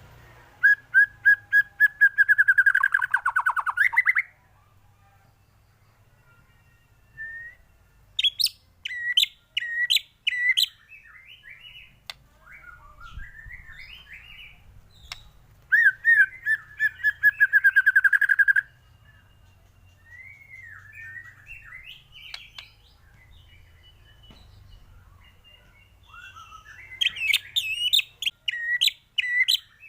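White-rumped shama (murai batu) singing its varied song in bursts separated by pauses. Fast rattling trills come near the start and again about midway, with sharp chips and quick warbled phrases between.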